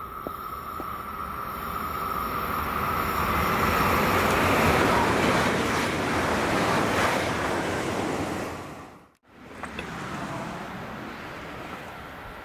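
A passing train: a rushing noise that swells, peaks around the middle and fades away. It drops out almost completely for a moment about nine seconds in, then a fainter steady rushing noise follows.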